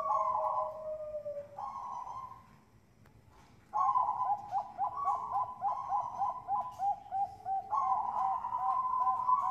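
Bangkok zebra dove (perkutut bangkok) cooing. A short call in the first two seconds, then a brief pause, then from about four seconds in a fast run of rolling coo notes, about three or four a second, that carries on to the end.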